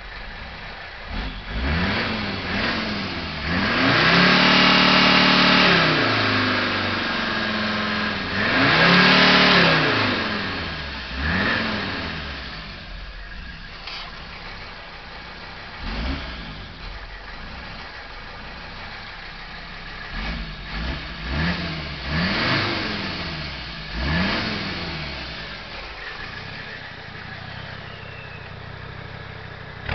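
Mercedes five-cylinder turbo diesel idling and being free-revved with no load, running after a new head gasket. Two revs are held for about two seconds each in the first ten seconds, and a quick string of throttle blips comes about twenty seconds in, with idle between.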